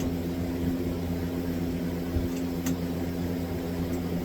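A steady low hum with a faint click about two and a half seconds in.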